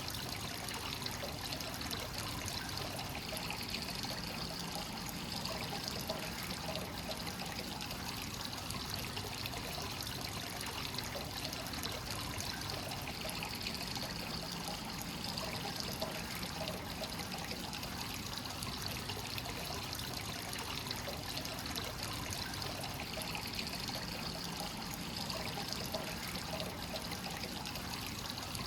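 Hot spring source water flowing continuously into a free-flowing (kakenagashi) bath, a steady trickling pour into the tub.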